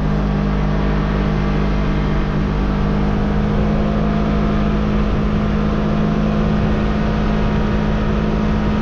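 Side-by-side UTV engine running at a steady pace while driving, with a constant hum under a wash of tyre and wind noise.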